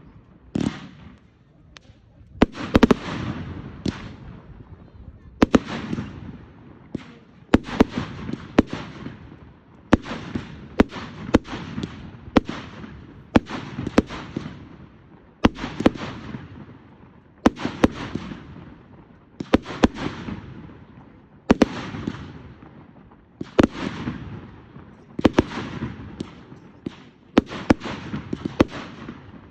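Fireworks going off in a continuous barrage: clusters of sharp bangs about every two seconds, each trailing off into fading crackle.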